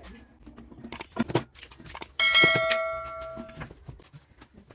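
A few light knocks, then a piece of metal is struck hard about two seconds in and rings with a bell-like tone that fades over about a second and a half.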